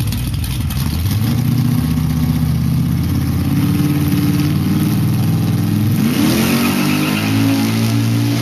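Car engine running steadily, then revved about six seconds in, its pitch rising quickly and holding higher.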